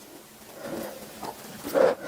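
Close-miked eating mouth sounds: faint soft sounds at first, then one short, louder mouth sound near the end.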